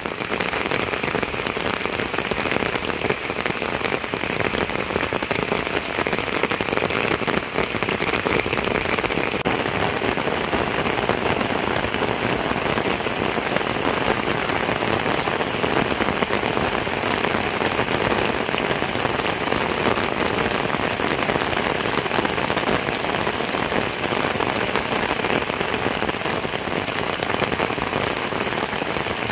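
Heavy rain falling steadily on roofs and vegetation: a continuous, even rush of rain with no breaks.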